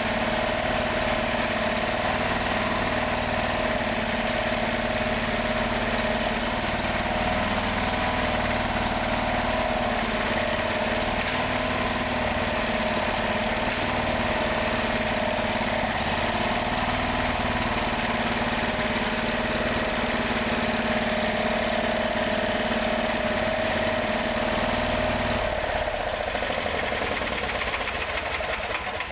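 Yanmar RM82U gasoline engine running steadily with its freshly cleaned carburetor, then shut off near the end and dying away.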